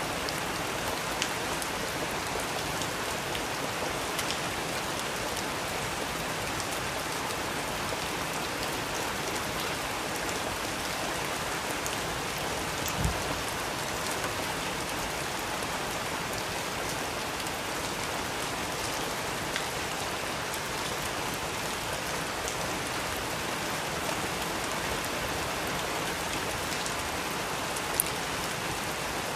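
Steady rain falling, an even hiss with scattered louder ticks of individual drops, two sharper ones about halfway through and near the end.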